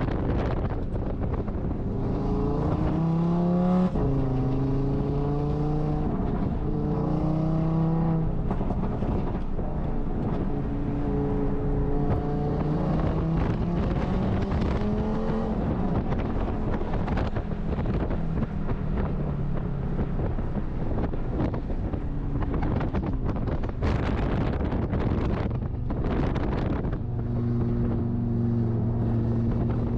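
Audi RS3 race car engine under way, its pitch climbing and stepping down several times as it shifts gears, easing off near the middle and settling to a steadier tone near the end, with wind rushing over the microphone.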